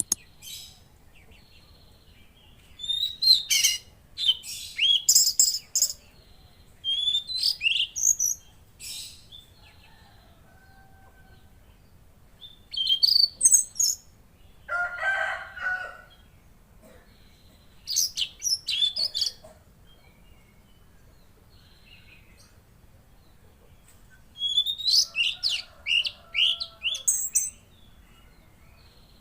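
Tledekan laut songbird singing in short bursts of fast, high, sweeping notes, about five phrases separated by pauses of a few seconds. A lower, harsher call comes about fifteen seconds in.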